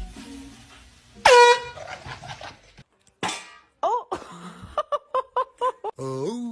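A dog yelping and whining: one loud, sharp yelp falling in pitch about a second in, then a quick run of short high yips, then a long wavering whine near the end.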